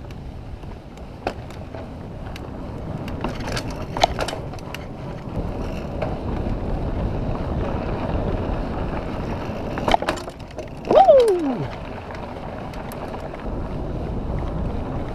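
Mountain bike rolling over a dirt and rock trail: a steady rush of tyre and wind noise with scattered rattles and knocks from the bike going over rough ground. About eleven seconds in comes a short loud whine that falls sharply in pitch.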